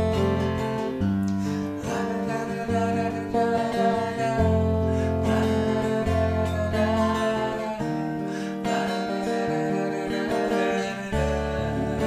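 Acoustic guitar strummed through an instrumental passage between sung lines, with held chords over changing low bass notes.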